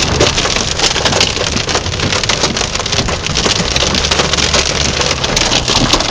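Heavy rain pelting down in a dense, loud patter of drops hitting hard surfaces.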